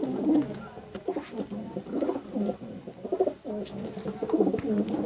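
Racing pigeons cooing, a string of repeated low coos.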